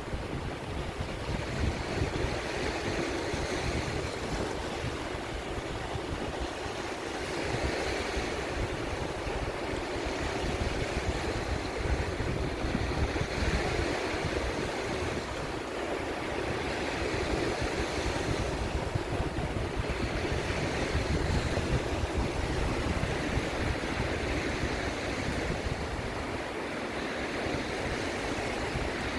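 Sea surf washing in, rising and falling every few seconds, with wind rumbling on the microphone.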